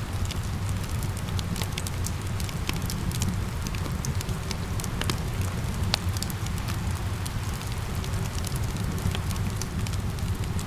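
Wood fire crackling with frequent sharp pops, over a steady low rumble and the hiss of rain.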